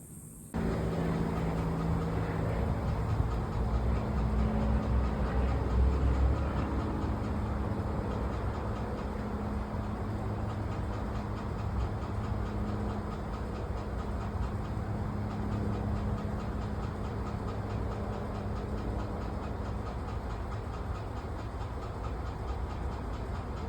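Car driving: a steady low road-and-engine rumble with a faint constant hum, starting abruptly about half a second in.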